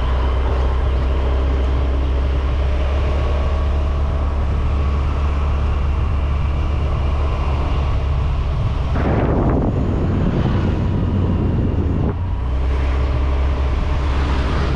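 Steady vehicle rumble and road noise with wind on the microphone. About nine seconds in, a louder rush of noise swells for a few seconds.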